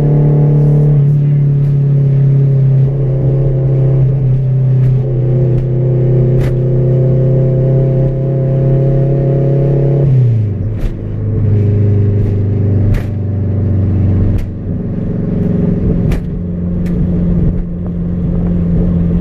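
Honda Integra engine heard from inside the cabin while driving, running at steady revs; about ten seconds in the revs drop sharply, then climb again to a steady, higher note near the end. A few sharp clicks sound along the way.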